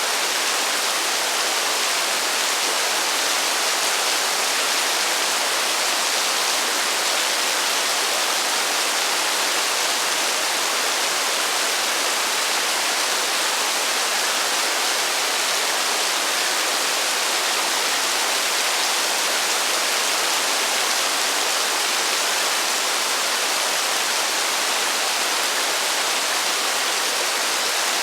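Heavy rain falling in a steady, even hiss, with no thunder and no separate drops standing out.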